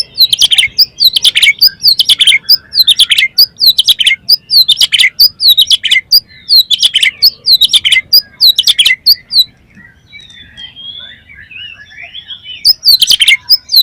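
Oriental magpie-robin (kacer) singing a loud, rapid song of repeated falling phrases, about one every two-thirds of a second. After about ten seconds it drops to softer twittering, and the loud phrases come back near the end.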